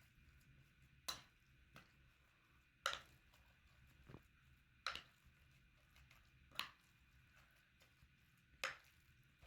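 Five sharp knocks, evenly spaced about two seconds apart, typical of food being struck or chopped during preparation, over a near-quiet background.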